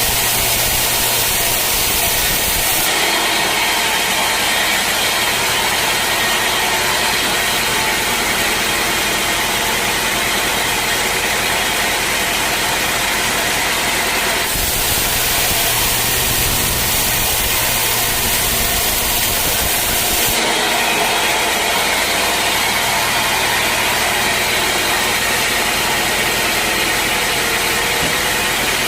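Sawmill machinery running loudly and steadily. Its tone shifts abruptly about three seconds in, again around fourteen seconds, and again around twenty seconds, as a low hum comes and goes.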